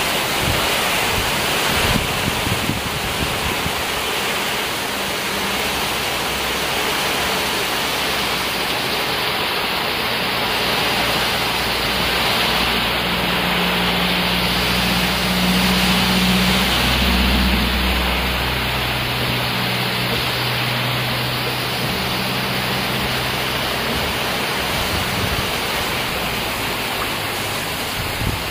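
Heavy rain pouring steadily, with water running and dripping off the edge of a roof.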